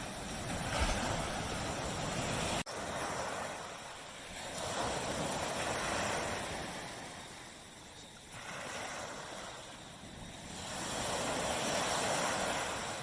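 Small waves breaking and washing up a tropical beach, the surf swelling and fading about every five or six seconds. There is a split-second gap in the sound a little under three seconds in.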